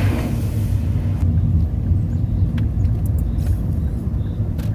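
Car driving along a road, a steady low rumble of engine and road noise heard from inside the car.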